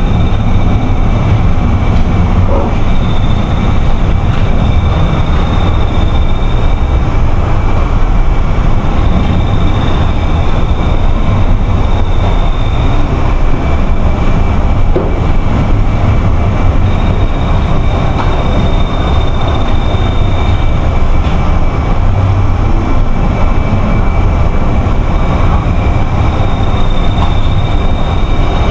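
Strong wind and rough sea: a loud, steady rumble of wind buffeting the microphone and waves. A faint steady high tone runs through it, and a higher whistle comes and goes.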